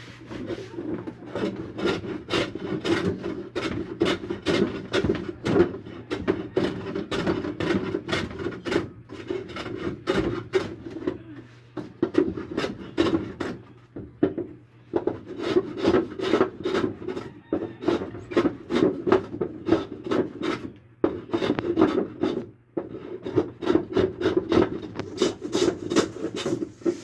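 A hand tool worked back and forth over wood, a rasping scrape repeated a few times a second, in runs broken by short pauses.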